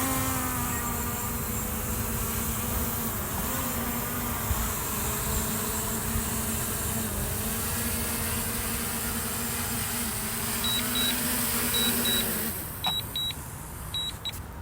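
Quadcopter drone's propellers buzzing steadily as it is brought down to land, cutting off suddenly about twelve seconds in. Near the end, several short high beeps in pairs and a few clicks.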